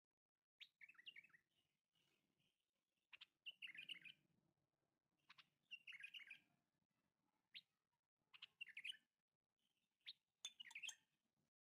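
Faint bird chirping: short twittering phrases that come back every second or two, with sharp single chips between them.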